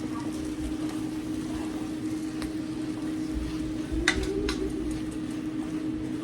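A steady low hum runs throughout, with two light clicks a little past the middle.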